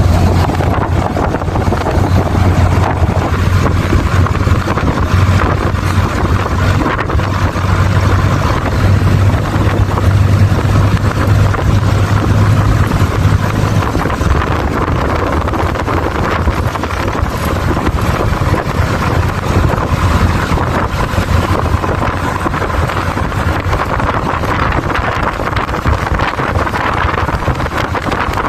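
Engine of a moving vehicle running with a steady low hum that fades out about halfway through, under heavy wind noise on the microphone.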